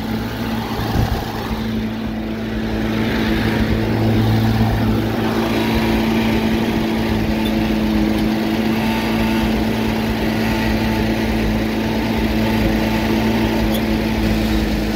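Oliver 770 tractor's six-cylinder engine idling steadily.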